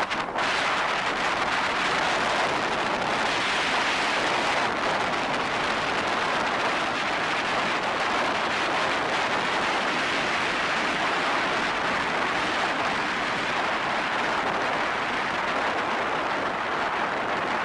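Steady rushing noise of wind and water spray on a moving jet ski, loud and even throughout.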